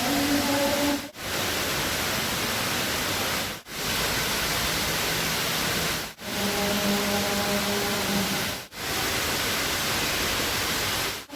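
Dubai Mall's indoor waterfall: water pouring and splashing in a steady rushing hiss, with brief drop-outs about every two and a half seconds.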